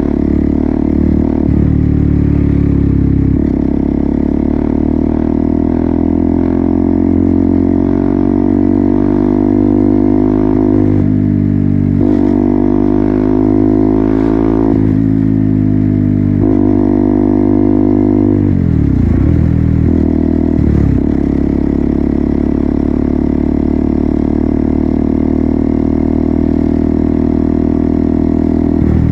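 KTM Duke 200's single-cylinder four-stroke engine running through an Akrapovic full-system exhaust while riding, mostly at a steady pitch. The pitch shifts a few times around the middle, and about two-thirds of the way through the revs drop sharply and climb again.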